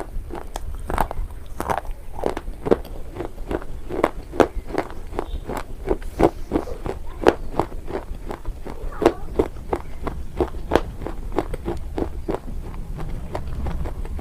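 Close-up chewing of a brittle slate-like material, a steady run of sharp crunches about three to four a second.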